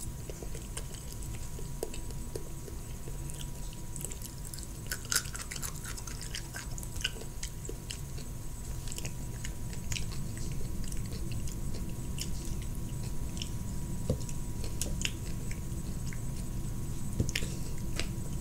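Close-up chewing of California roll sushi: small mouth clicks scattered throughout, over a low steady hum.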